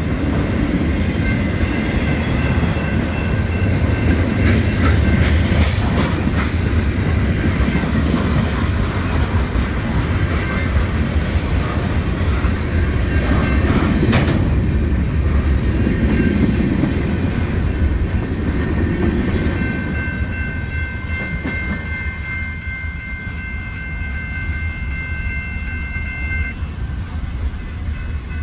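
Norfolk Southern freight cars rolling past close by: a heavy steady rumble with the clickety-clack of wheels over the rails and a sharp clank about halfway through. Later several steady high tones ring for about six seconds, and the rumble eases as the end of the train passes.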